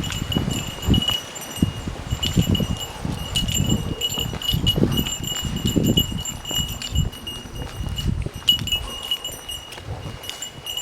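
A small bell jingling almost without a break, brightening in quick irregular pulses. Low, irregular thumps and rumble sound underneath.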